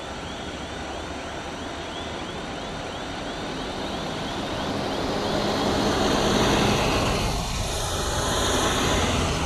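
A vehicle passing close by, its noise swelling to a peak about two-thirds of the way through, while a fast-repeating siren fades out in the first half.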